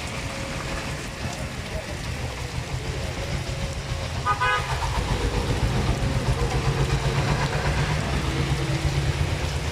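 Road traffic with a steady engine rumble, and a short vehicle horn toot about four and a half seconds in.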